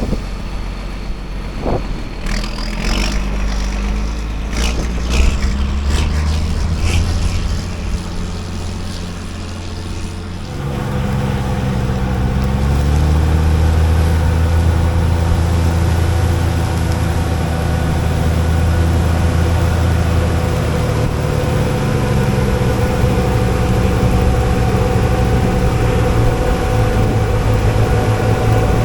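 Heavy farm vehicle engine running, with knocks and rattles over the first ten seconds. It then revs up, runs steadily louder, and eases down in pitch about twenty-two seconds in.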